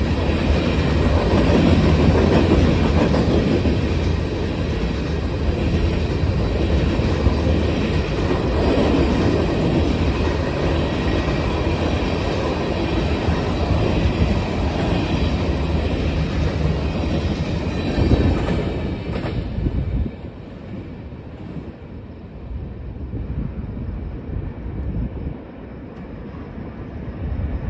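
Freight cars of a long manifest train rolling past, the wheels clattering over the rail joints with a steady heavy rumble. About two-thirds of the way through the sound drops away sharply, to a much quieter rolling.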